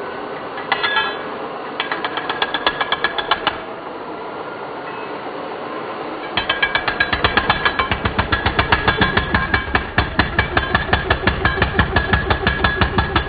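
Jackhammer breaking up concrete: a short run of rapid hammering about two seconds in, then a longer, louder, steady run from about six seconds in.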